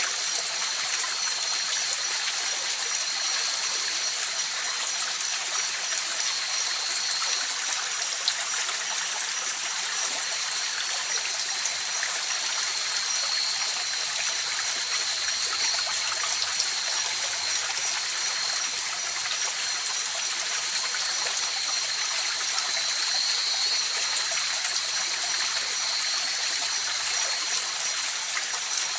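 Mountain river flowing steadily: an even rushing and trickling of water with no breaks. A thin, steady high-pitched tone runs over it throughout.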